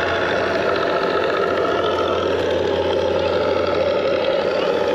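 RC warbird sound module playing a simulated radial-engine idle through the small onboard speakers of a FlightLine Corsair model, running steadily with the plane's throttle cut off.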